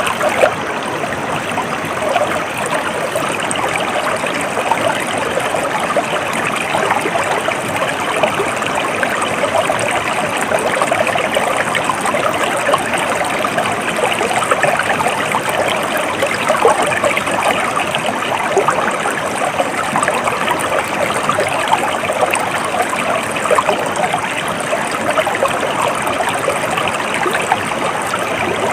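A stream flowing and trickling steadily, a continuous babble of running water.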